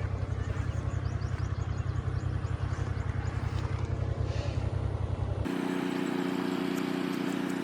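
Fiat 480 tractor's diesel engine running steadily with a fast, even firing beat while belt-driving a wheat thresher. About five and a half seconds in the sound cuts abruptly to a steady drone with several held tones.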